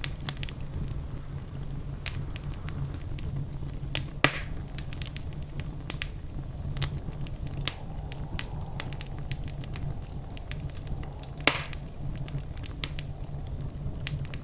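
Fireplace fire crackling: a steady low rumble under scattered small crackles, with two sharper pops, one about four seconds in and one later on.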